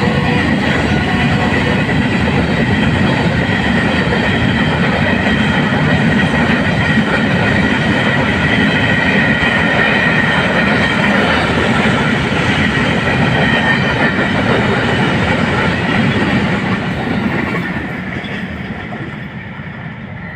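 An empty coal train's wagons rolling past at speed on the rails, with a steady high ringing over the rumble. The noise starts to fade about four seconds before the end as the train draws away.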